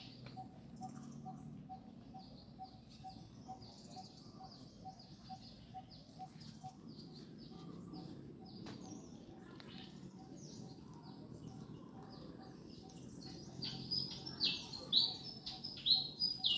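Many small birds chirping and twittering, with louder down-slurred chirps near the end. A faint even pulsing tone repeats about three times a second underneath.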